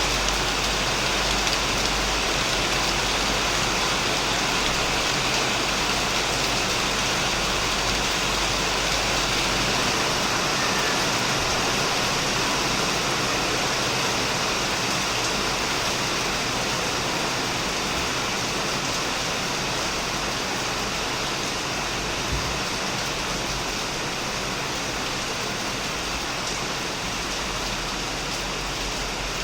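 Heavy, steady rain falling on a shed roof. A low rumble underneath fades about a third of the way in.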